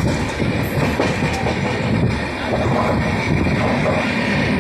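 Indian Railways passenger train running through a station, heard from on board: a steady rumble of wheels on the track with irregular clattering.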